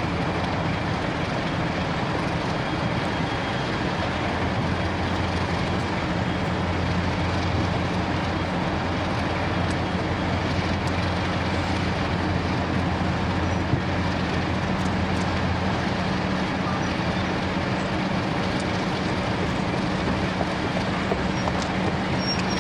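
Diesel locomotive engine running steadily, a constant low drone that grows a little stronger in the middle.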